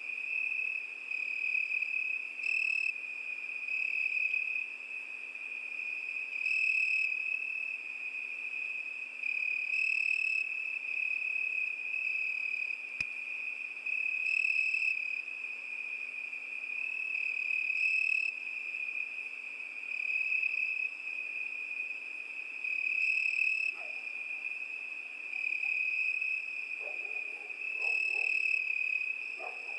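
Cricket chirping in a continuous high, steady trill that swells louder every few seconds.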